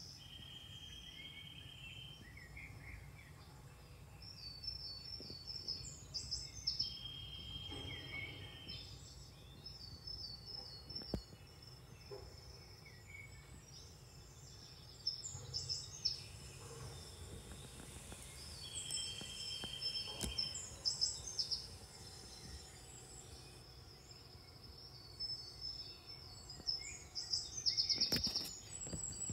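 Birds chirping and singing, with short high chirp phrases repeating throughout and a few held whistled notes, over a steady low rumble. A quick run of clicks comes near the end.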